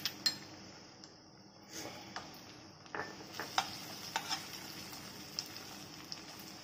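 Onion, capsicum and chilli paste sizzling in oil in a nonstick kadai, stirred with a wooden spatula that scrapes and taps against the pan every so often.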